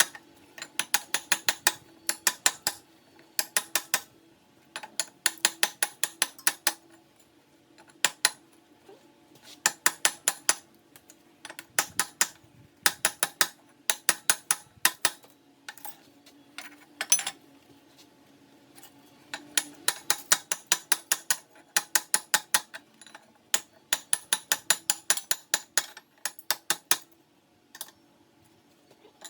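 A hand ratchet clicking in quick runs of several clicks, stroke after stroke with short pauses between, over a faint steady hum.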